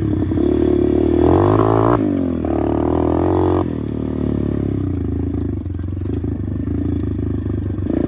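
125cc pit bike engine running while being ridden, revving harder with the pitch moving up and down over the first few seconds, then easing off to a lower, steadier note about four seconds in.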